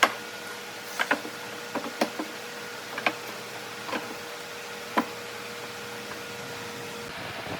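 Sharp knocks, about one a second and some in quick pairs, over a steady hum that stops near the end.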